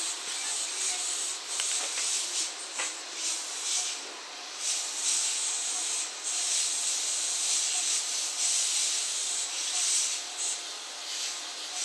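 JR West 227 series electric train moving slowly at the platform: a steady hissing rush that swells and fades in waves.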